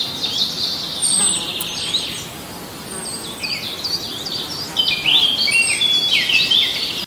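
Small birds chirping and singing, many short high calls overlapping, busier in the second half.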